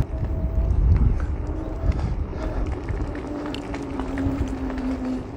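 Homemade electric mini-bike on the move: a faint, steady electric-motor whine that rises slightly and holds, over a heavy low rumble with irregular knocks from the tyres and chassis.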